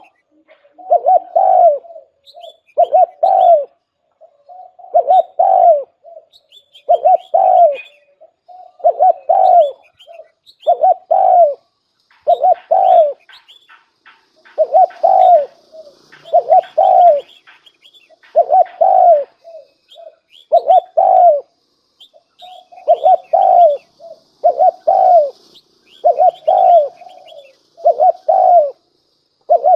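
Spotted dove cooing over and over, one loud phrase about every two seconds. Faint chirps of small birds sound above it.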